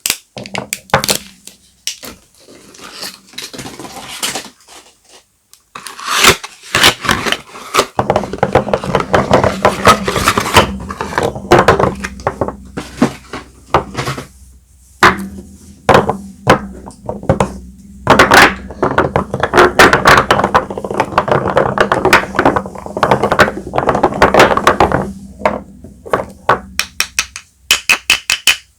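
Soap bars being unwrapped by hand: packaging rustling and crinkling, broken by many sharp taps and thunks as the bars and their boxes are handled on a hard surface.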